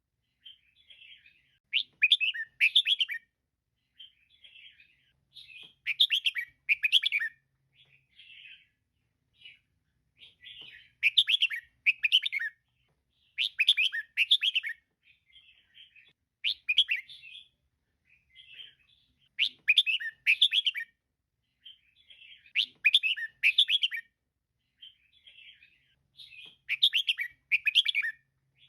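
Female red-whiskered bulbul calling: short bursts of chirps repeated every two to three seconds, with softer chirps in between.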